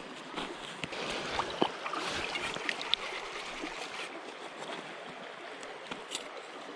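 Steady rushing of a mountain stream, with a few small, scattered clicks.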